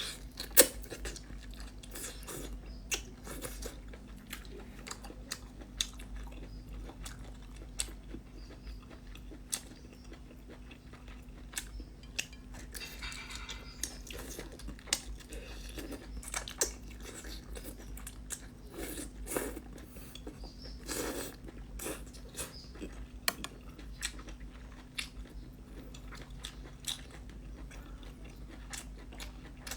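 A person eating seafood close to the microphone: chewing with irregular crunches and sharp cracks, with a steady low hum underneath.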